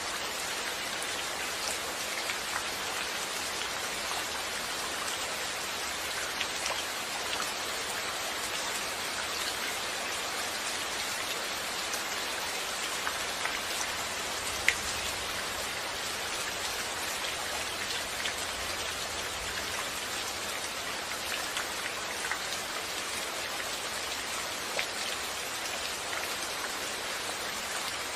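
Steady rain falling: an even hiss peppered with individual drop hits, and one sharper drop about halfway through.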